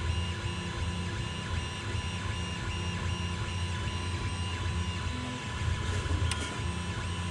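Creality CR-10 3D printer running a print, its stepper motors whining with a steady tone and a low hum, and a higher note that pulses about twice a second as the axes move back and forth.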